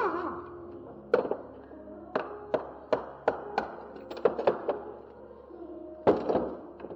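Metal tools and transmission parts clinking and knocking as the gearbox is taken apart: about a dozen irregular sharp taps, the loudest about a second in and near the end. Faint background music underneath.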